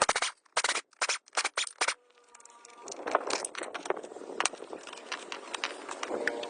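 A series of sharp clicks and scrapes, crowded together in the first two seconds with short silent gaps, then sparser clicks over a faint hiss.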